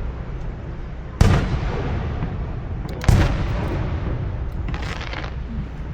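Aerial fireworks shells bursting: two loud booms about two seconds apart, each trailing off in a long rumble, then a fainter hissing burst near the end.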